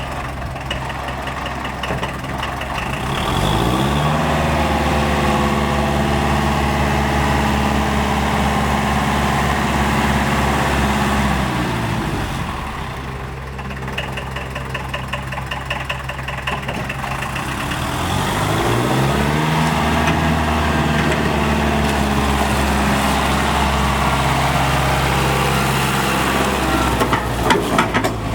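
Esslingen DZ 10 tractor's Mercedes OM 636 four-cylinder diesel, with a fast diesel clatter at the slow stretches. Engine speed rises and holds steady, drops back, then rises and holds again before falling away near the end.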